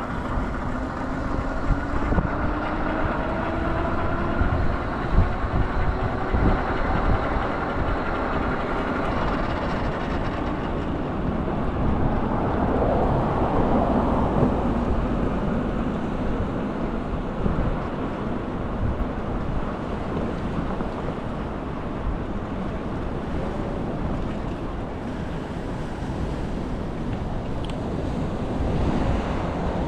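A vehicle engine running with its pitch slowly rising over the first ten seconds, amid steady traffic rumble and wind buffeting the microphone.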